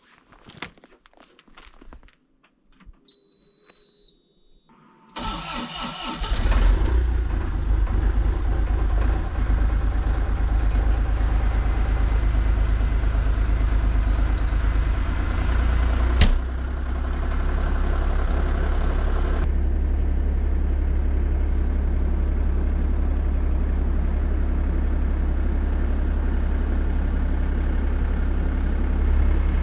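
A few clicks and a short electronic beep from the Bobcat E50 excavator as the key goes on. Its diesel engine then cranks for about a second, catches and settles into a steady idle on a cold start. A single sharp click comes about halfway through, and a few seconds later the engine note drops slightly and holds steady.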